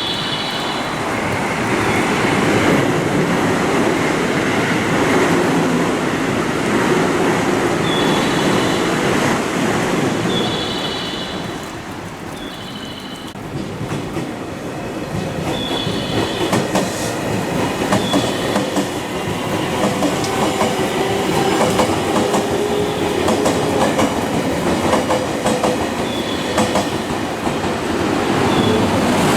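Electric train moving along the station tracks: wheels clacking over the rail joints, with short high-pitched wheel squeals every second or two.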